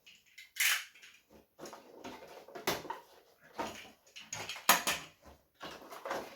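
A cardboard action-figure box being handled and opened: a run of short rustles, scrapes and clicks, with a sharper snap about five seconds in.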